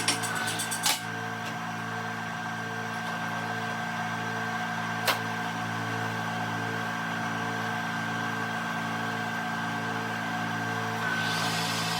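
A workshop machine's electric motor running steadily with a low hum and a higher whine, with a faint beat a little over once a second. A few clicks in the first second, and one sharp click about five seconds in.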